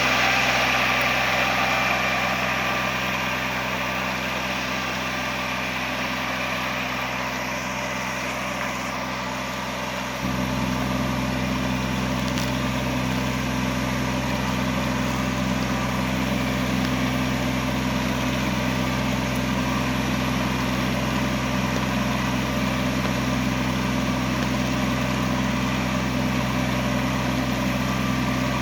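Mini tractor engine running steadily with a continuous hiss over it. About ten seconds in, the low rumble suddenly gets louder and then holds steady.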